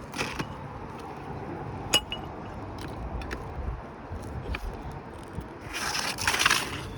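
Asphalt roof shingle being pulled loose, with scattered scrapes and clicks, a sharp click about two seconds in and a louder rasping scrape near the end.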